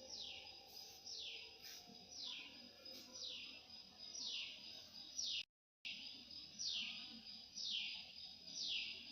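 A bird repeating a high, downslurred call about once every 0.8 seconds, each call falling steeply in pitch, with the sound cutting out briefly about halfway through.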